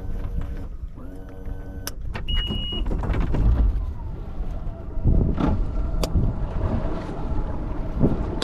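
Mercury 150 HP outboard running on a bass boat, with heavy wind buffeting the microphone. A short high beep sounds about two seconds in.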